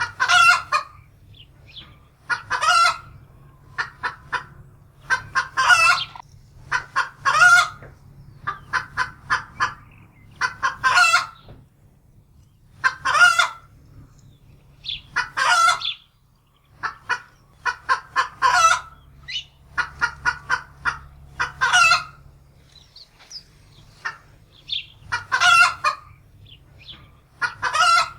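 Domestic hen cackling in alarm, as after sighting a wildcat: repeated series of short clucks, each series ending in a long, loud drawn-out squawk, every couple of seconds. A low steady hum sits underneath.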